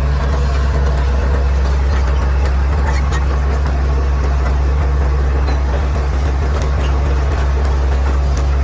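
Caterpillar D6R XL bulldozer's diesel engine running with a steady, low drone that does not change in pitch or level.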